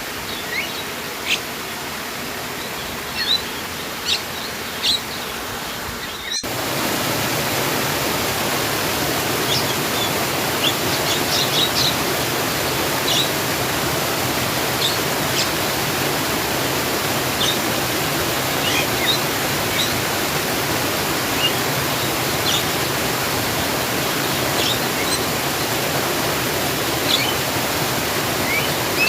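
Steady rushing water with small birds chirping over it. About six seconds in it cuts suddenly to a louder, fuller rush of water, the chirps going on above it.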